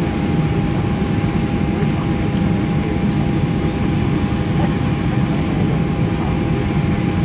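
Steady cabin noise inside a Boeing 737-500 airliner: an even low rumble with a faint steady whine over it, with no change in pitch or level.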